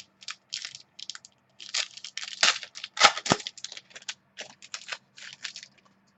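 Plastic wrapper of a football trading-card pack being torn open and crinkled by hand: a run of quick, irregular crackles and rips, loudest around the middle.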